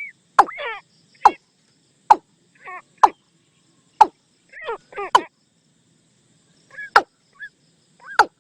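Watercock calling: a string of short, sharp notes that drop steeply in pitch, coming irregularly about once a second, mixed with a few quavering, warbling calls.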